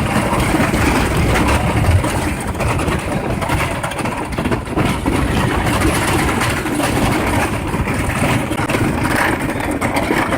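Thunderhead wooden roller coaster train running along its track: a steady, loud rumble.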